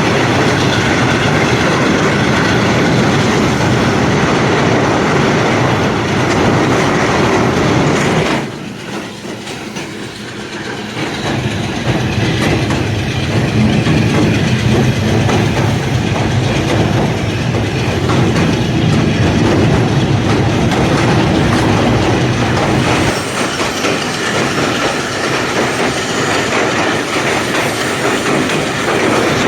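Passenger train running on the rails: a steady rumble with clickety-clack from the wheels. About eight seconds in the sound drops suddenly for a few seconds, then builds back up.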